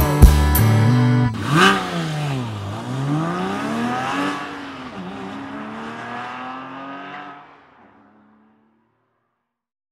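The song's beat cuts off about a second in. A car engine follows, revving up and down several times with its pitch sweeping up and falling back, and fades out by about eight seconds in.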